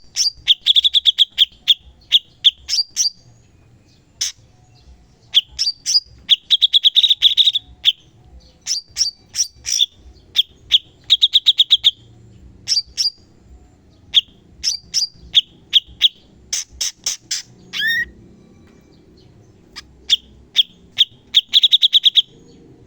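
Cucak cungkok songbird singing in repeated bursts of rapid, sharp notes: fast rattling trills and chattering 'shots', each burst lasting about a second, with short pauses between.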